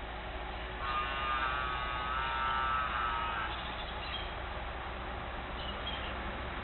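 A bird giving one long, slightly wavering call with a rich, layered tone that starts about a second in and lasts about two and a half seconds, followed by a few faint short chirps, over a steady low hum.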